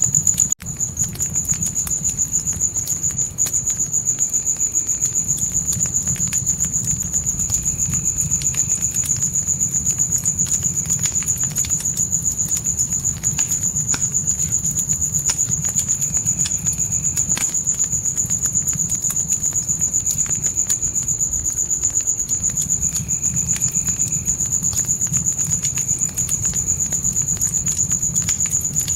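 Crickets trilling in one unbroken high tone over a crackling fire, which gives a low steady rumble and scattered sharp pops. The sound cuts out for an instant about half a second in.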